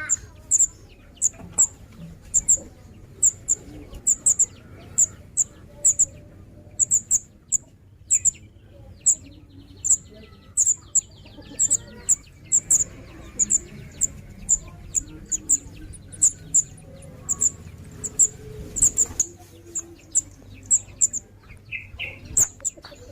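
Young songbird chirping: short, sharp, high-pitched chirps repeated over and over, about two a second, some coming in quick pairs.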